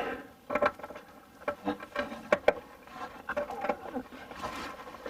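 Irregular small clicks, knocks and rattles of parts and hand tools being handled while fitting a diesel heater's fuel pump and fuel line.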